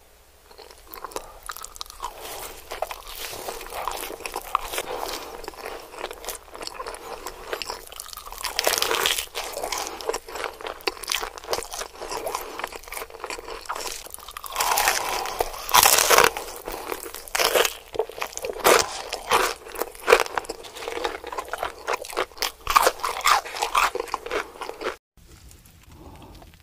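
Close-miked crunching of crispy fried chicken being bitten and chewed: dense, irregular crackles with louder bursts at each fresh bite. There is a short break near the end.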